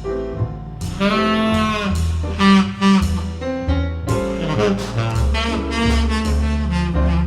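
Tenor saxophone playing a slow jazz ballad melody in phrases of long held notes over a low bass line, a recording played back through ATC SCM 11 bookshelf speakers.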